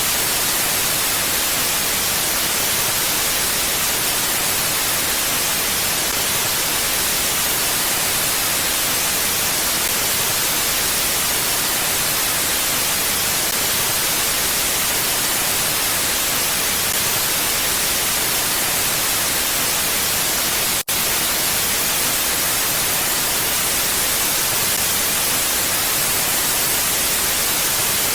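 Steady, even hiss of wind ambience, with no gusts or swells. It cuts out for an instant about 21 seconds in.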